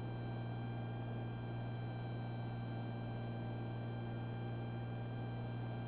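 Steady low hum with faint hiss on a small plane's intercom audio line.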